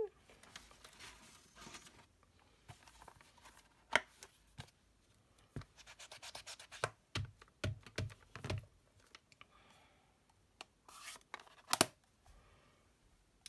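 Paper crafting handling sounds: cardstock rustling and scraping, with scattered light taps and clicks as a small stamp is inked and pressed onto card.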